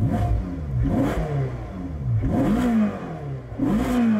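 Ferrari engine revved hard in neutral about four times, each blip rising in pitch and dropping back, climbing to around 7,000 rpm.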